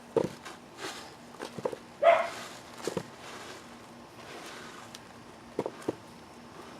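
Hands digging through soil in a potato tote, with scattered soft knocks as potatoes are handled and dropped, and one brief louder rising sound about two seconds in.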